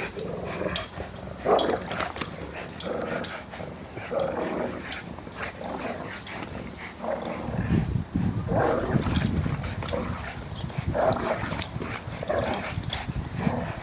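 Two dogs growling in repeated short bouts as they play tug-of-war over a rope toy. The growls grow deeper and louder about halfway through.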